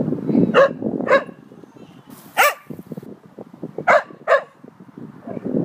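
A dog barking five times: a pair of barks about half a second apart, a single bark about a second later, then another pair near the end, over wind buffeting the microphone.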